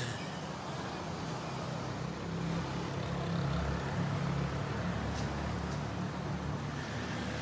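Steady low rumble of motor vehicle traffic, with a short click at the very start.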